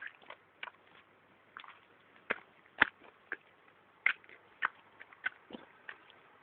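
Rainwater dripping: irregular sharp drips, one or two a second, with a faint hiss between.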